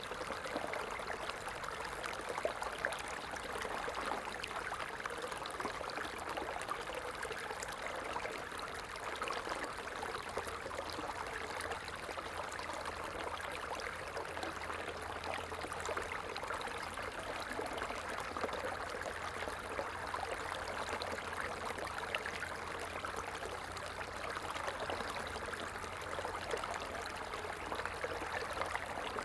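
A small stream running steadily, its water trickling and babbling without a break.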